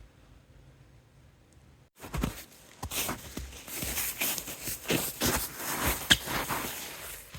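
Footsteps crunching through snow at a steady walking pace, about two steps a second, starting suddenly about two seconds in after a faint quiet.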